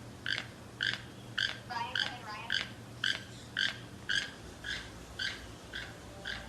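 An animal's short chirping calls, repeated evenly about twice a second, with a brief wavering pitched call about two seconds in.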